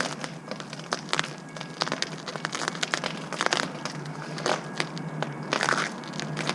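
Footsteps crunching on icy, crusted snow, a few crisp crunches each second in an uneven walking rhythm.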